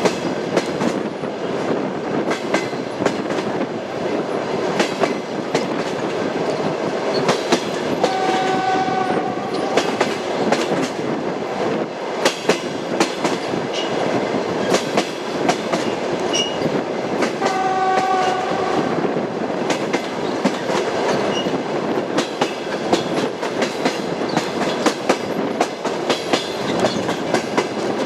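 Passenger train running on jointed track, its wheels clacking steadily over the rail joints under a constant rumble. A train horn sounds twice, once about eight seconds in and again about ten seconds later, each blast lasting a second or two.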